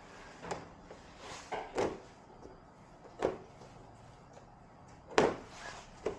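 A series of irregular knocks and clunks, six or so, the loudest about five seconds in.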